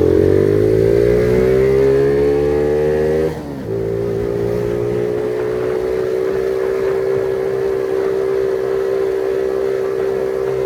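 Phoenix 50cc moped engine under way. Its pitch climbs as it accelerates, breaks off briefly a little over three seconds in, then holds steady.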